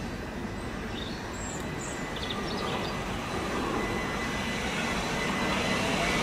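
An electric multiple-unit passenger train approaching on the line, its rumble growing steadily louder.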